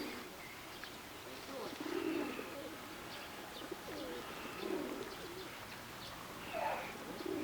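Pigeons or doves cooing in low, repeated phrases every two to three seconds, with smaller birds chirping faintly in the background.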